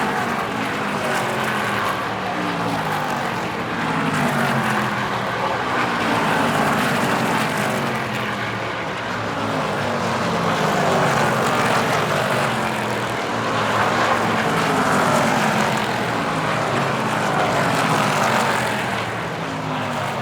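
A field of NASCAR Craftsman Truck Series race trucks running at speed, their V8 engines passing one after another with a pitch that rises and drops as each goes by, several overlapping at once.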